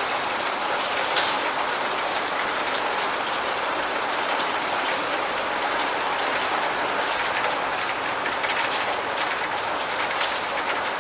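Steady rain: a constant even hiss with the sharp ticks of individual drops pattering through it.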